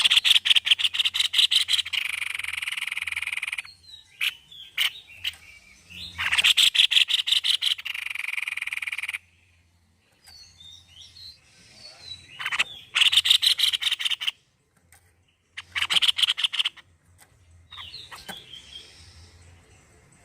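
White-necked babbler calling in bouts of fast, rattling repeated notes, the longer bouts trailing off into a buzzy chatter. There are four bouts, with quieter chirps between them.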